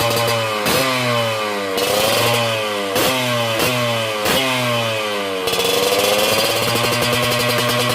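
Yamaha RX-King's two-stroke single-cylinder engine running through a stainless YT115 Lobster aftermarket exhaust: idling, then a string of quick throttle blips, the pitch falling back after each one, before it settles to a steady idle again about two-thirds of the way in.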